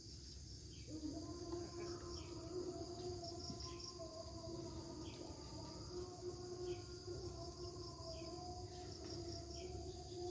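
Insects chirring in a steady high chorus, with short falling chirps repeating about once a second. A steady low hum runs underneath.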